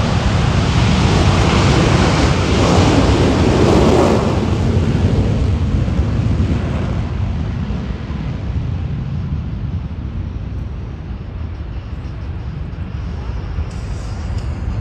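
Aircraft passing over the crowd. It is a loud, rushing roar that swells to its peak about four seconds in, then slowly fades as the aircraft moves away.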